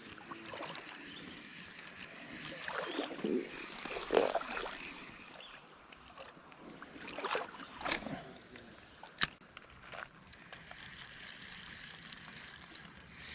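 Creek water running steadily, with a few splashes and sloshes and one sharp click a little after the middle.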